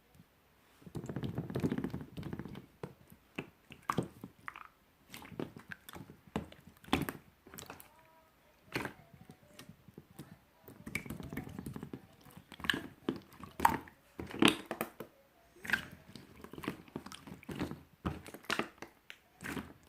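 Clear, bouncy slime being handled: a steady run of sticky clicks and pops as it is pressed and poked. About a second in, and again around ten seconds in, it is squished and folded for a couple of seconds at a time.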